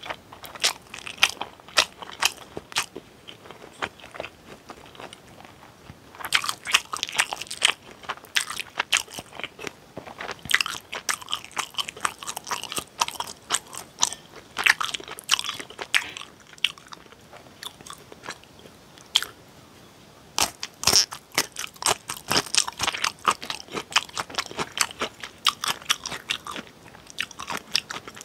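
Close-miked chewing and eating mouth sounds, a dense run of wet clicks and smacks as a mouthful of spicy instant stir-fried noodles is chewed, coming in two long busy stretches with a quieter spell between.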